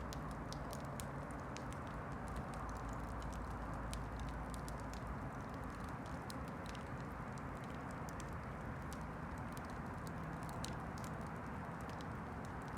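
Campfire crackling: many small irregular pops and snaps from the burning wood over a steady hiss.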